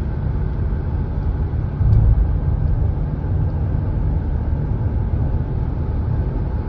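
Steady low rumble of a moving road vehicle, swelling briefly about two seconds in.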